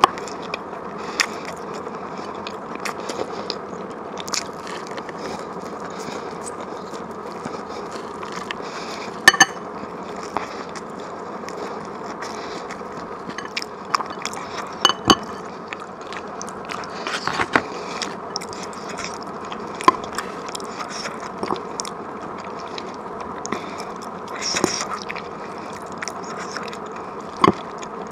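Close-miked eating: chewing and wet mouth sounds of spicy Chinese-style dishes, with sharp clicks now and then at irregular intervals, the loudest about nine and fifteen seconds in, over a steady hiss.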